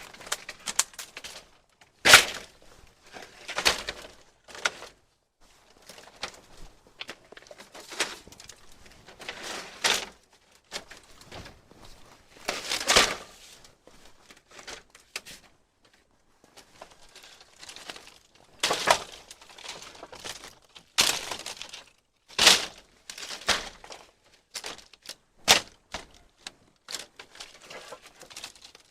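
Materials being handled and worked by hand: irregular sharp knocks and cracks every second or few seconds, with crinkling noises between them.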